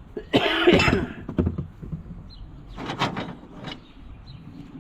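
Metal garden tractor parts clanking and scraping as they are handled and shifted. The loudest clatter comes about half a second in, with shorter rattles near the three-second mark.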